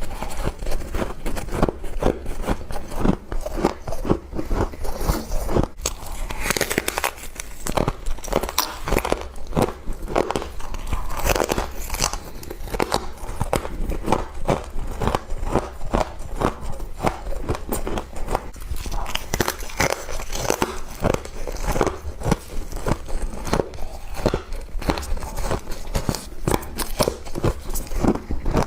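Frost being bitten and chewed close up: a continuous run of crisp crunches, several a second.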